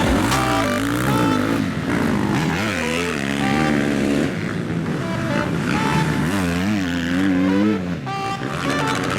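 Motocross bike engines revving up and down over and over, the pitch rising and falling in quick swings, with more than one bike running at once.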